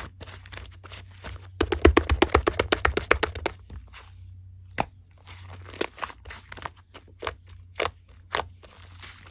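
Slime being squished and pressed by hand, making sticky clicks and small pops: a rapid run of clicks about two seconds in, then a short pause and scattered single clicks.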